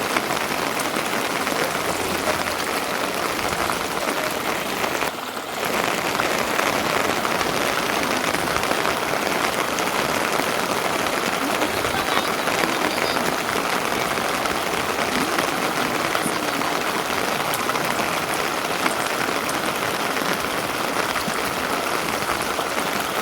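Steady, fairly loud rain, an even hiss of falling water that drops away briefly about five seconds in.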